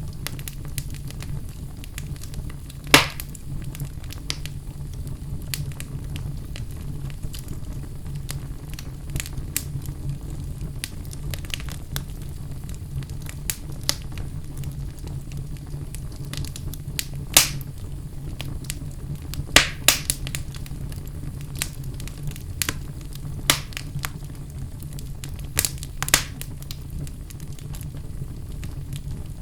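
Wood fire burning in a fireplace: a steady low rumble of the flames with irregular crackles and sharp pops of burning wood, a few louder pops scattered through.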